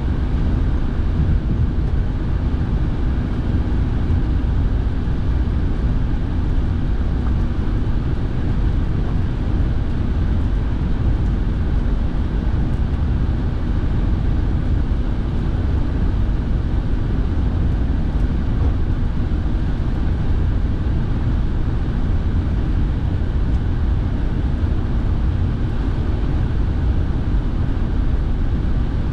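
Steady cabin noise inside a moving car: a low rumble from the engine and tyres on a wet road, with the heater fan blowing. It holds steady, with no changes.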